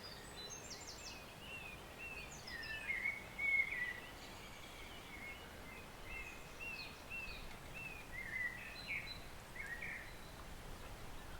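Small woodland songbirds chirping and singing in quick, repeated short notes, the loudest burst a few seconds in, over the faint steady rush of a forest stream.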